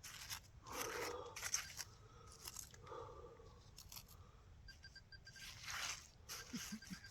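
Digging in wet, mucky soil by hand: a digging tool crunching and scraping through the dirt in a few separate strokes, with a faint short run of electronic beeps about five seconds in.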